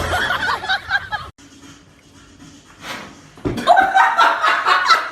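People laughing in a run of short bursts, starting about three and a half seconds in, after a brief unclear sound that cuts off and a quieter stretch.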